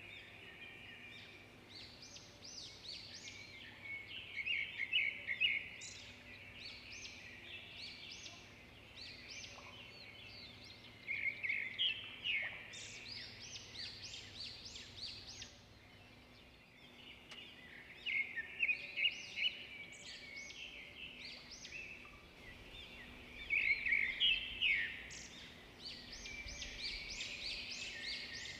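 Small bird singing in bursts of rapid high chirps and trills, a few seconds apart, over a faint steady hum.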